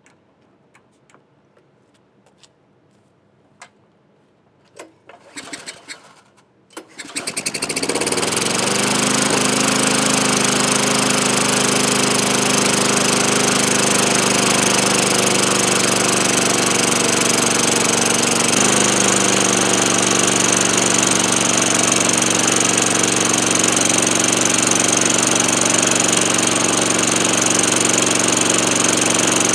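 Tecumseh single-cylinder lawnmower engine starting about seven seconds in after a few clicks and knocks of handling, speeding up over a couple of seconds, then running steadily at speed, with a slight drop in pitch about two-thirds of the way through. The owner suspects the engine of worn rings or low compression.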